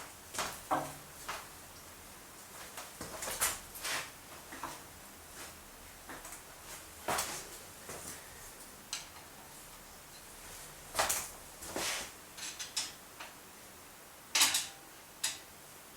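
Scattered metallic clicks and knocks of hand work on a milling machine table, such as handles, screws and fittings being moved, with a few louder knocks about two-thirds of the way through and near the end.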